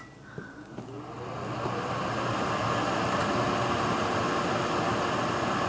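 Microwave oven starting up and running with a steady hum and fan noise, building to full level over the first couple of seconds.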